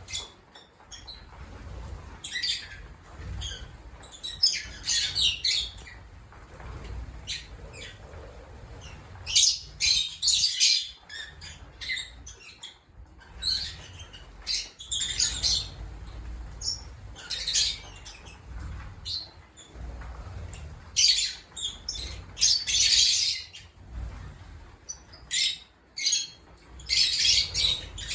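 Lovebirds chattering, with shrill chirps and screeches in clusters every few seconds.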